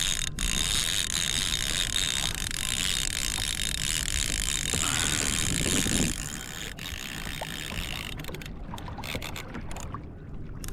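Fishing reel ratcheting steadily as a hooked dorado is fought from a kayak, growing quieter about six seconds in.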